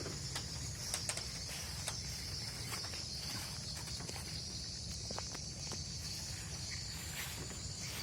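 Steady high-pitched insect chorus, cricket-like, over a low steady rumble, with a few scattered short clicks.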